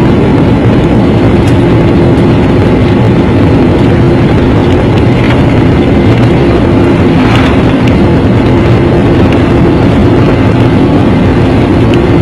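Airliner jet engines and airflow heard from inside the passenger cabin, a loud steady noise with a low hum running through it, as the plane takes off or climbs out.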